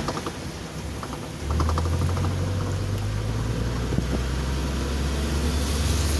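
Car interior noise while driving: a steady low engine and road rumble that drops away for about the first second and a half, then returns. Short runs of quick, light ticking come near the start and again around two seconds in.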